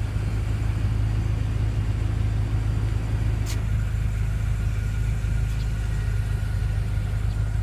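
A BMW M5 F10's twin-turbo 4.4-litre V8 idling, a steady low hum, with a single sharp click about three and a half seconds in.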